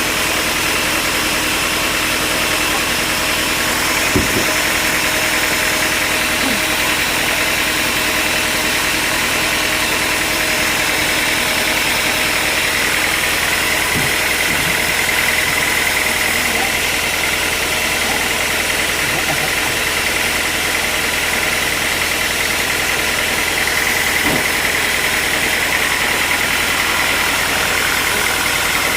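Sawmill machinery running steadily, with a motor's hum and a higher whine that grows stronger about halfway through.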